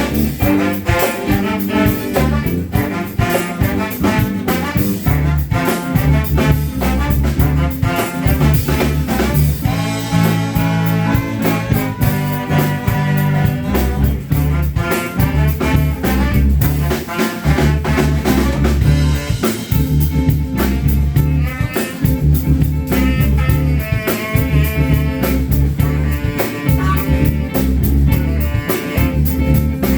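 Live band playing an upbeat number: a brass horn section over a steady drum beat and heavy bass.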